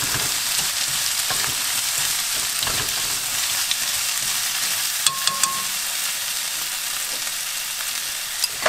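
Diced vegetables, bacon and imitation crab sticks sizzling in oil in a nonstick wok while wooden chopsticks stir them, a steady frying hiss. A few sharp clicks come about five seconds in.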